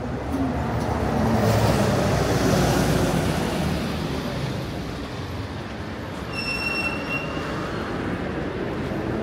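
City street traffic: a heavy vehicle passes close by, loudest a couple of seconds in, then fades. About six and a half seconds in, a short high-pitched tone sounds for under a second.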